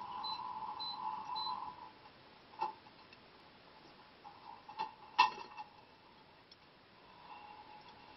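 Inside an Ariston LV 46 A IX dishwasher during a cold-water rinse: a steady hum that stops about two seconds in, then a few sharp clicks and knocks, the loudest about five seconds in, before the hum comes back near the end.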